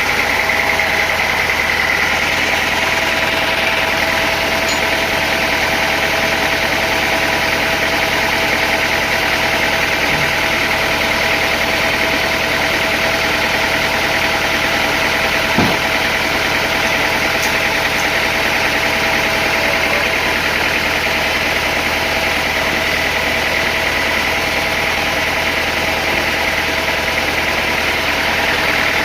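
Sawmill machinery running steadily: a continuous mechanical drone with a steady whine over it, and a single knock about halfway through.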